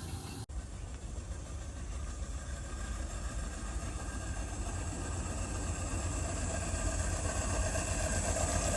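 A small 7½-inch gauge model locomotive running on the track, its engine noise steady and growing louder as it comes closer.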